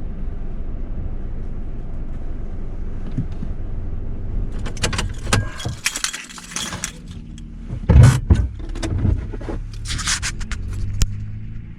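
Steady low rumble of a vehicle running, then from about five seconds in a string of sharp clicks, knocks and rustling handling noises, the loudest knock about eight seconds in.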